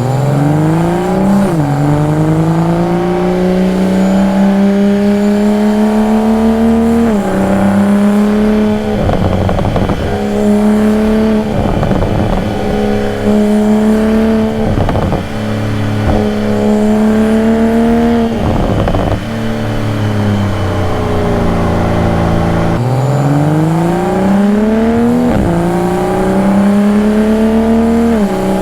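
2022 Toyota Supra's engine exhaust and induction under acceleration, the pitch climbing through each gear and dropping sharply at the upshifts. In the middle it holds a steadier pitch with a few short rasps, then falls away off throttle before pulling hard through the gears again.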